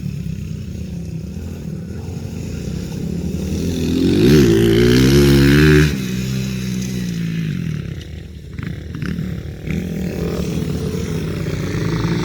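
Small single-cylinder pit bike engine running. About four seconds in it revs up sharply and is held high for a couple of seconds, then drops back suddenly. It runs lower and uneven for a moment, with a few short knocks, before settling into a steady run.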